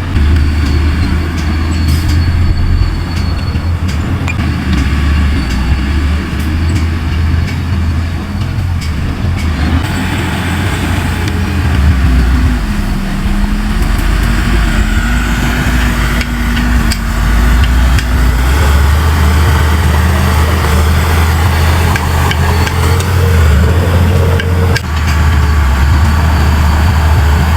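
Heavy diesel earthmoving machinery running: a loud, deep, steady engine rumble, with a tone that dips and rises in pitch partway through.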